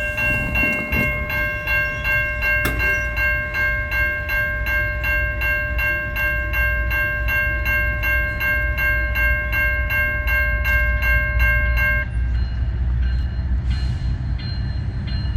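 Railroad grade-crossing bell ringing in rapid, even strokes, about three a second, then cutting off suddenly about twelve seconds in. Under it runs the steady low rumble of the Canadian National train's diesel locomotives.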